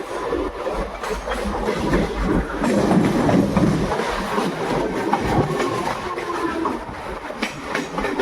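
Train running on the rails, a continuous rumble with its wheels clattering over the rail joints.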